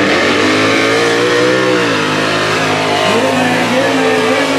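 Mega truck engine revving hard, its pitch climbing and dropping a few times as the throttle is worked.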